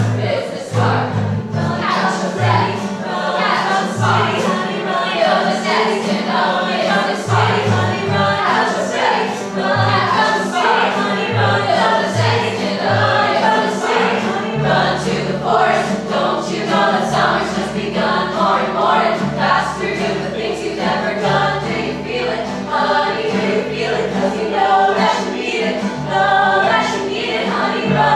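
Music: a group of voices singing together over accompaniment, with a bass line that plays short separate notes at first and switches to long held notes about halfway through.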